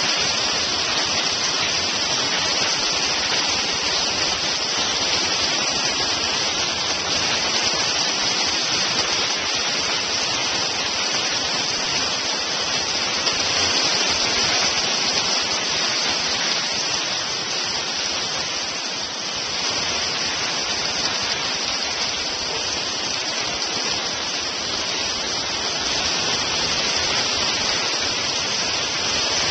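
Hailstorm: hailstones pelting down in a dense, steady patter of countless small impacts, easing slightly about two-thirds of the way through.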